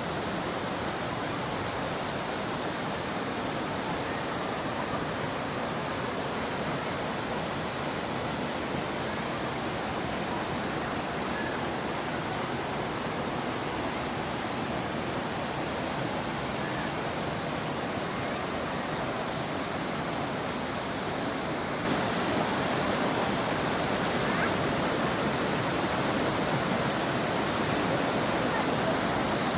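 Waterfall: a steady rush of falling water that suddenly gets louder about three quarters of the way through.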